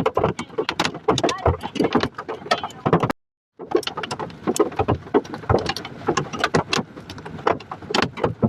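Hailstones pelting a hard surface in a dense, irregular clatter of sharp hits, broken by a moment of dead silence about three seconds in.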